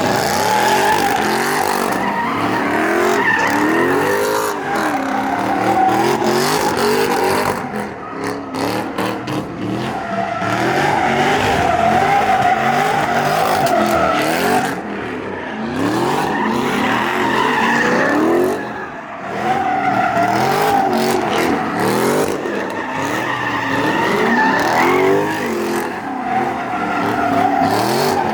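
Car spinning donuts: the engine revs up and down again and again while the tires squeal continuously, with a few brief lulls.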